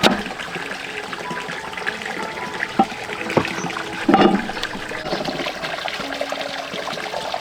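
Water running and trickling steadily, with a few light knocks and a louder splash-like burst about four seconds in.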